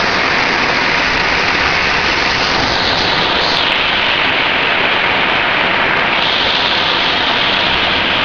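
Heavy thunderstorm rain pouring down steadily, a dense, even hiss.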